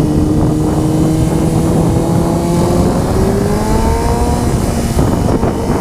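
Honda CBR sport bike engine running under the rider, its note rising steadily as it accelerates, then dropping away about five seconds in as the throttle is eased or a gear changes. Heavy wind rumble on the microphone runs underneath.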